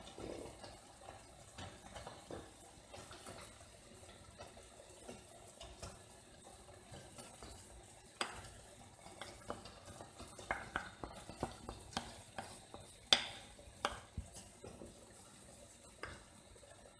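Cutlery stirring and scraping through macaroni and cheese in a dish, with a string of sharp clicks against the dish in the second half, the loudest about three-quarters of the way through.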